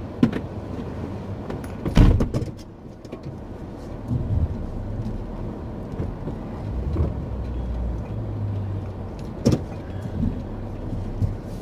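Camper van's engine running at low speed while it is maneuvered, with a few sharp knocks, the loudest about two seconds in and another near the end.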